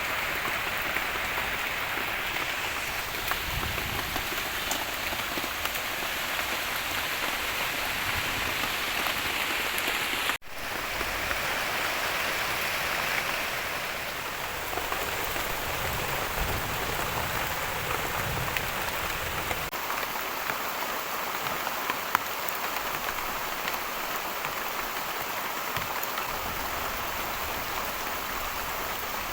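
Heavy rain falling steadily in a tropical rainforest, a dense, even patter on leaves and the surfaces around; it cuts out for an instant about a third of the way through.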